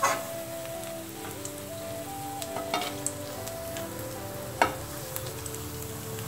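Soya kebabs sizzling as they shallow-fry in hot oil in a pan, with a spatula clicking against the pan a few times, sharpest about four and a half seconds in, as the light-brown kebabs are lifted out.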